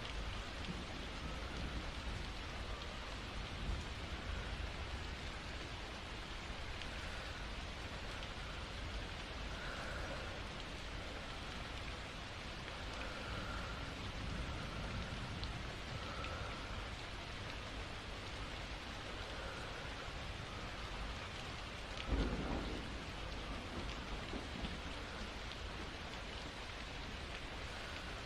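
Steady rainfall, with a short low rumble of thunder about three-quarters of the way through.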